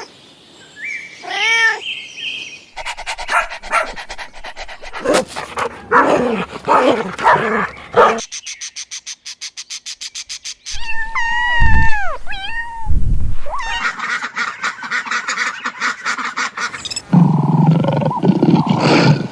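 A string of different animal calls edited together, switching abruptly every few seconds: pitched calls, a stretch of fast even pulsing, then chirping, gliding calls.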